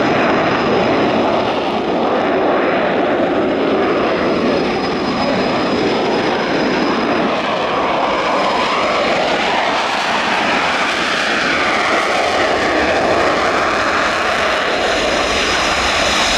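Eurofighter Typhoon's twin EJ200 jet engines running, a steady loud roar with a thin high whine at the start and again near the end.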